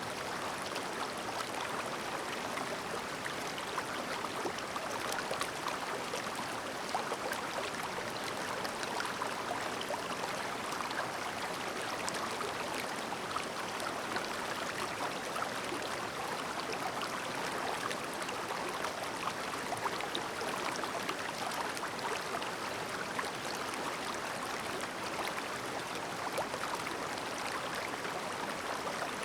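Clear, shallow mountain river babbling steadily over its stones, with fine trickling and splashing.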